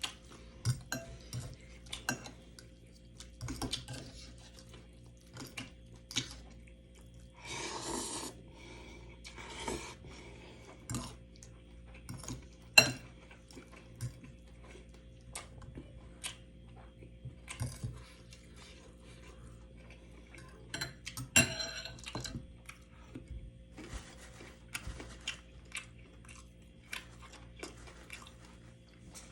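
Cutlery clinking and scraping against a dish during a meal: scattered light taps and clinks, with one sharp clink about 13 seconds in. There are brief stretches of rustling or scraping noise about 8 seconds in and again about 21 seconds in.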